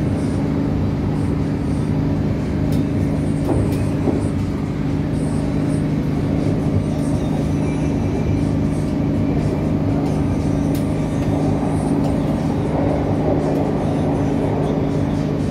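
Steady low drone of an NI Railways CAF-built diesel multiple unit under way, heard inside the carriage, with wheel-on-rail running noise and a few light clicks.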